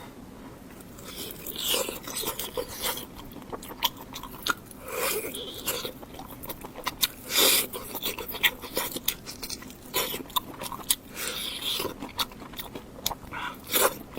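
Close-miked eating: a person biting and chewing food, with wet mouth clicks and crunchy bites coming in irregular bursts from about a second in.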